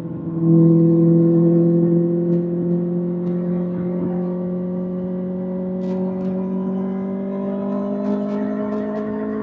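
Kawasaki ZX-6R inline-four engine through an SC-Project SC1-R exhaust, opening up about half a second in. It then pulls steadily, its pitch rising slowly and evenly.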